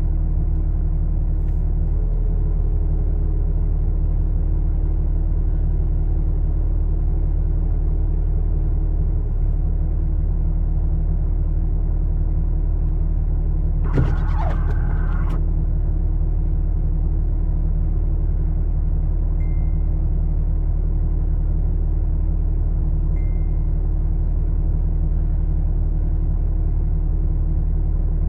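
Vehicle engine idling steadily with a constant low hum, and a brief louder noise about halfway through.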